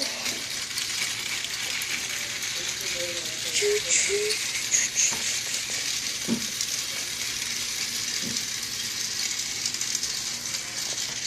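Small battery-powered toy train running on its plastic track: a steady whirring hiss, with a couple of light clicks a few seconds apart.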